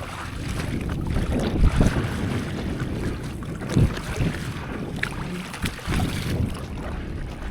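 Wind buffeting the microphone over the wash of sea water, with irregular low gusts.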